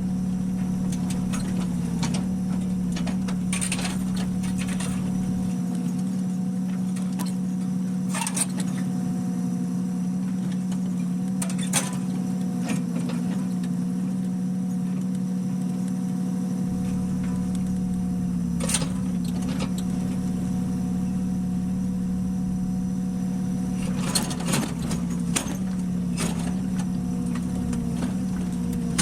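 An engine idling steadily with a constant hum, with scattered sharp clicks and clinks.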